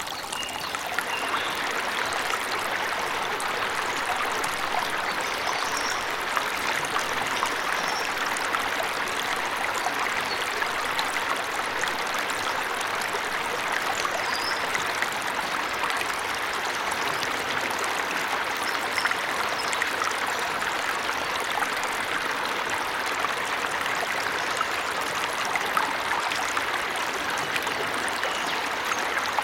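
Steady rush of falling water from a forest waterfall, with a few faint, brief bird chirps scattered through it.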